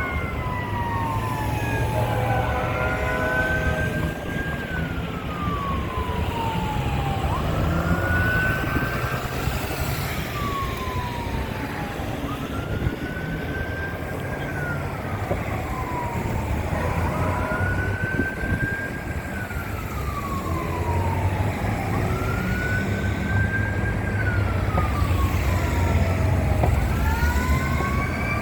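Fire truck's mechanical Q siren repeatedly winding up to a peak and coasting back down, about six slow rise-and-fall cycles, over the low rumble of the truck's Cummins X15 diesel engine.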